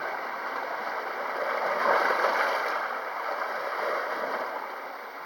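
Sea waves washing on the shore, with one wave surging louder about two seconds in and then drawing back.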